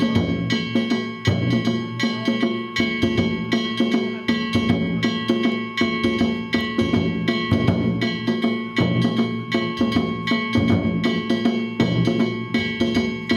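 Danjiri festival hayashi: a taiko drum and small hand gongs (kane) beaten in a fast, steady rhythm, the gongs ringing over the drum strokes.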